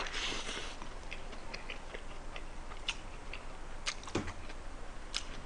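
Eating close to the microphone: a bite into a foil-wrapped Spam, tuna and kimchi rice burger, then chewing with scattered wet mouth clicks.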